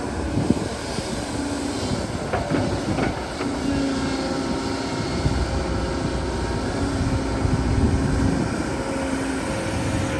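Excavator working: a steady diesel engine rumble with a pitched drone that comes and goes several times, and a few sharp clanks about two to three seconds in.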